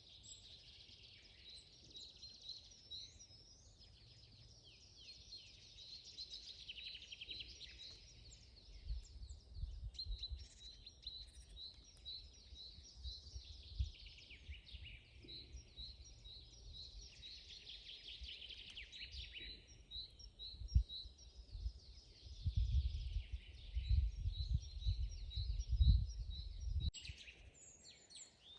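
Several songbirds singing together in a forest, one repeating a short high note over and over among the other songs and trills. Low gusts of wind rumble on the microphone, strongest near the end, where the sound changes abruptly.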